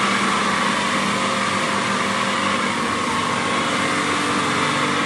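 A machine's motor running steadily: a constant hum with a higher whine over a wide hiss, unchanging throughout.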